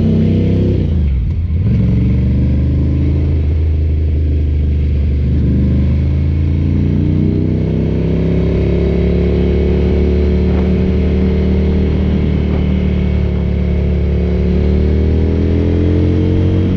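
Ducati café racer motorcycle engine under way. The revs dip sharply about a second in, then rise slowly and steadily for the rest of the stretch.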